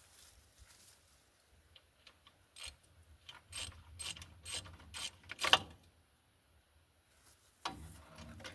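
Socket ratchet clicking through a run of strokes, about two a second, while backing out a 13 mm bolt on the bottom of the shock absorber. A louder knock with a short rattle comes near the end.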